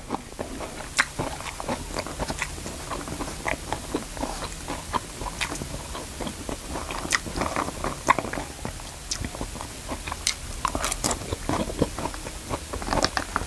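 A man chewing mouthfuls of fried rice close to a clip-on microphone: a steady run of short, irregular mouth clicks.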